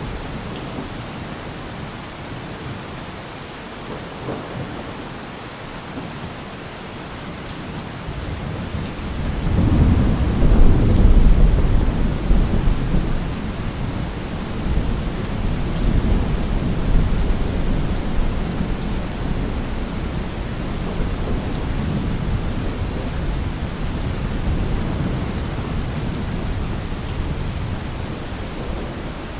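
Steady heavy rain falling, with a long low rumble of thunder that swells about a third of the way in, is loudest for a couple of seconds, and rolls on more softly for another ten seconds or so.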